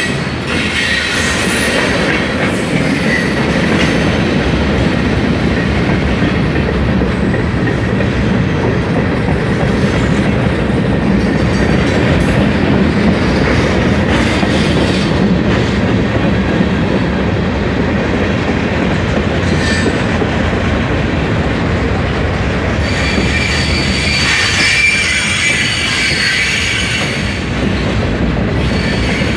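Freight train cars rolling past at close range with steady wheel-and-rail noise and clickety-clack. High-pitched wheel squeal comes in near the start and again near the end.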